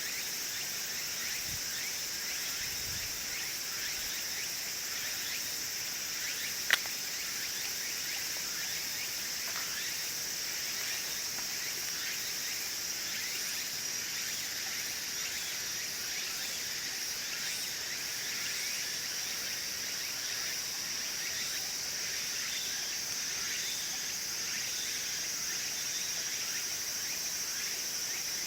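Wood fire in a wood stove crackling with scattered small snaps, over a steady high-pitched chorus of crickets. One sharp, loud pop from the fire about seven seconds in.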